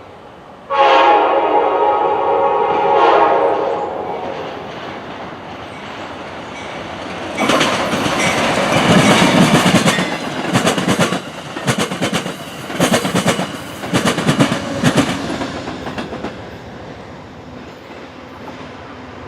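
A passenger train's air horn sounds a chord for about three seconds and fades. Several seconds later the train passes at speed, with a loud rush and rapid clickety-clack of wheels over the rail joints, which dies away over the last few seconds.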